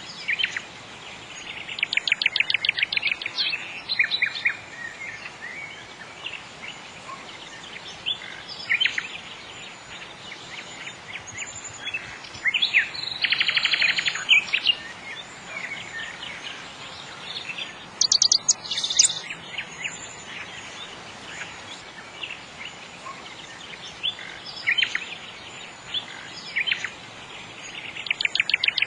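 Nightingale singing: separate phrases of fast repeated notes and trills with pauses of a few seconds between them, the fullest phrase a loud rattling series about halfway through.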